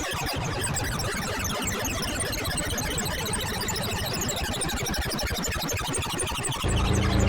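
DIY modular synthesizer noise patch: a sample-and-hold circuit randomly stepping a triangle-wave VCO's pitch, the filter cutoff and a wavefolder, with delay feedback, making a dense chatter of rapid random blips. Near the end it turns louder into held low droning tones.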